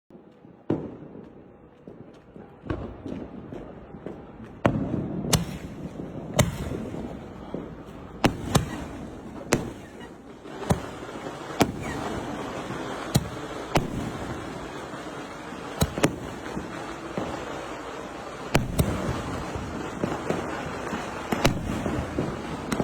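A 2.75-inch 25-shot fireworks cake firing display shells: sharp bangs about every one to two seconds, some in quick pairs, over a continuous hiss that builds after the first few shots.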